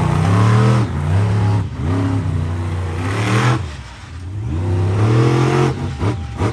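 Monster truck engine revving hard in repeated bursts, its pitch rising and falling several times, with a brief lull about two-thirds of the way in and a drop-off near the end.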